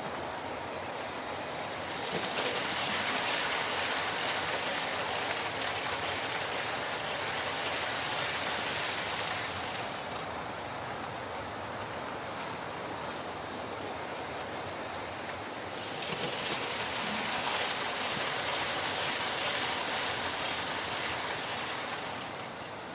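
OO gauge model train running on the layout's track: a steady mechanical rattle of wheels and motor. It grows louder twice, about two seconds in and again about sixteen seconds in, as the train comes closer, and fades near the end.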